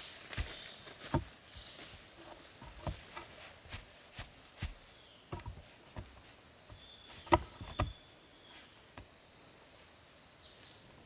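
Irregular knocks and clicks of wood being handled and worked, the loudest a sharp double knock about seven seconds in. Faint high chirps come now and then.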